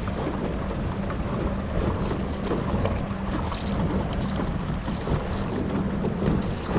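Watersnake 30-pound-thrust electric trolling motor running at full speed with a steady hum, under wind rumbling on the microphone and choppy water against the kayak.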